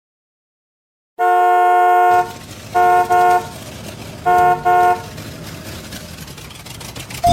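A vehicle horn sound effect. After about a second of silence there is one long honk, then two double toots about a second and a half apart, over a steady low engine-like rumble.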